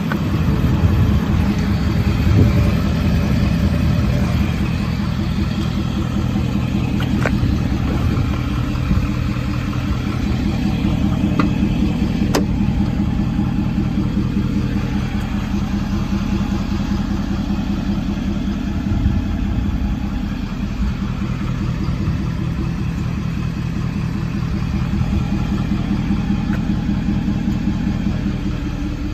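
Ford 6.7 L Power Stroke V8 turbo-diesel engine idling steadily.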